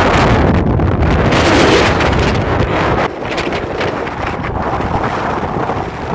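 Strong, gusty wind rushing and buffeting the microphone. It eases a little about three seconds in.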